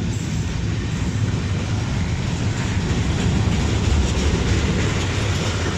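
Container freight train's wagons rolling past at close range: a steady rumble of steel wheels on the rails.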